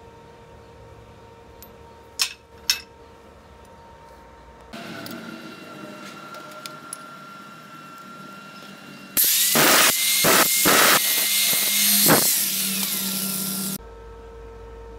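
Two sharp knocks, then a handheld power tool running against iron parts for about four and a half seconds with a steady whine, stopping suddenly.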